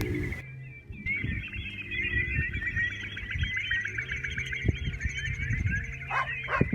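Dense, continuous chorus of finch song and twittering trills. The speaker takes it to be electronic bird lures played from a trapping site rather than live birds. Near the end a few short falling cries cut in.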